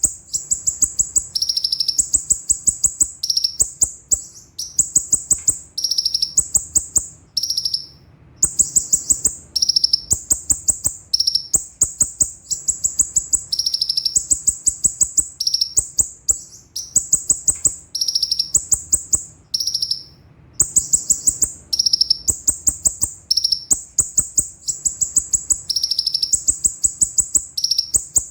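Konin (kolibri ninja, a small sunbird) singing a sharp, fast rolling trill: rapid high notes that step back and forth between two pitches, in phrases of about a second with brief gaps between them.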